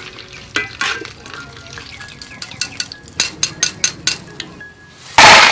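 Banana pieces frying in oil in a wok, sizzling, while a metal spatula and wire skimmer clink against the pan as they are stirred and scooped out. About halfway through comes a quick run of sharp taps, a few a second, and just before the end a short, loud rush of hiss.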